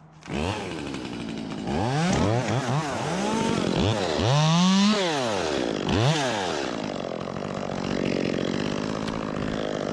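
Ported Echo CS-2511T top-handle chainsaw starting up sharply, then revved up and down several times before being held at high revs for the cut.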